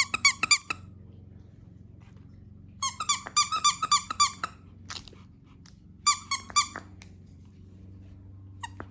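Squeaky dog toy squeezed in quick runs of high squeaks, in four bursts: at the start, around three to four seconds in, around six seconds, and again at the very end.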